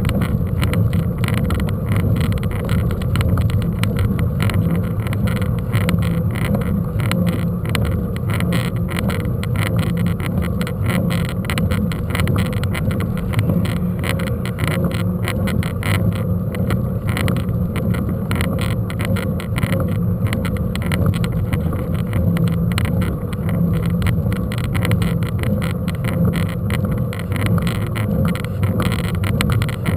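Mountain bike in motion on a mounted camera: a steady low rumble of wind and tyres with rapid, constant rattling clicks from the bike.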